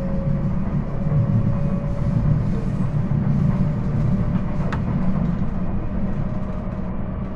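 Regional passenger train running at speed, heard from inside the carriage: a steady low rumble of wheels on rail with a faint steady tone over it. A single short click comes about four and a half seconds in.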